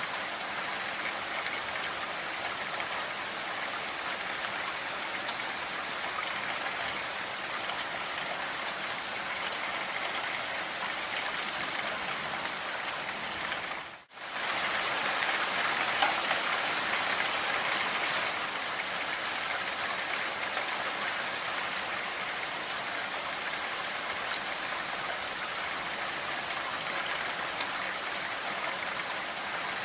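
Steady rain falling, an even dense hiss of drops. About halfway through it dips out abruptly for a moment and comes back a little louder for a few seconds before settling.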